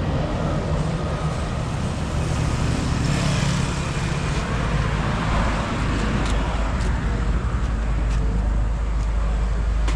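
Motor vehicle engine running steadily amid street traffic noise.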